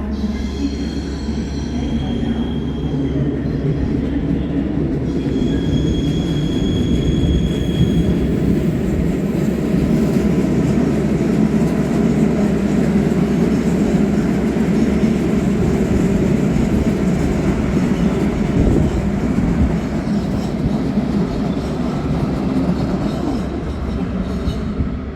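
A passenger train running along the platform with a steady heavy rumble, and high-pitched wheel squeals twice in the first eight seconds or so.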